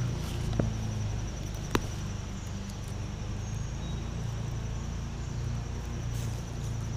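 Insects trilling steadily in a high, fast pulsing tone over a low steady rumble, with two sharp clicks in the first two seconds.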